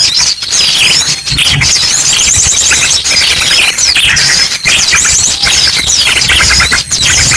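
Bird-lure recording of many small birds chirping and trilling loudly over one another, mixed with the rapid song of an ashy drongo: a dense, unbroken chatter of quick repeated notes.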